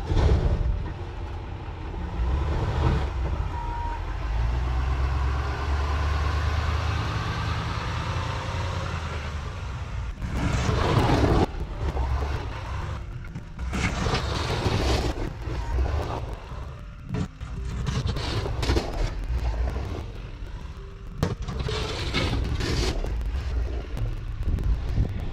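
Engine of a snow-clearing vehicle running steadily, its pitch rising and falling in the first half, with repeated short bursts of noise through the second half.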